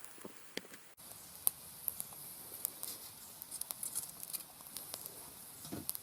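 Beef liver grilling over a wood fire in a fire pit: irregular crackles and pops over a faint sizzling hiss, which both get louder about a second in.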